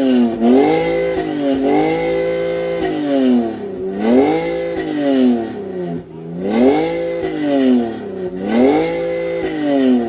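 Car engine revved hard, over and over: it climbs, hangs near the top, then drops back, about six times.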